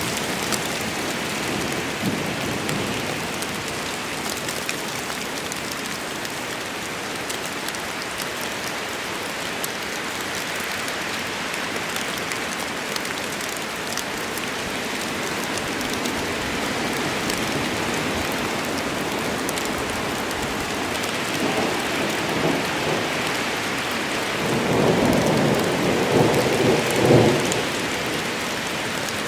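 Steady rain falling in a forest during a thunderstorm, with thunder rumbling in the last third: a first low roll, then a louder one near the end.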